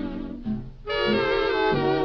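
Big-band swing music, instrumental with no singing; the band thins out briefly just after half a second in and comes back in full a little before the one-second mark.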